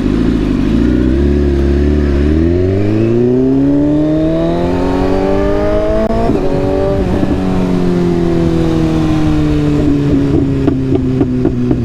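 Motor vehicle engine accelerating, its pitch rising smoothly for about six seconds, then a gear change and a lower, steady pitch with some quick pulsing near the end.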